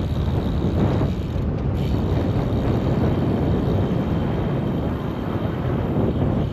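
Steady low rumble of wind buffeting a GoPro microphone on a moving bicycle, mixed with the bike's rolling noise.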